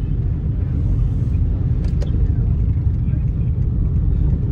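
Steady low road and engine rumble inside a moving car, with two short sharp clicks about two seconds in.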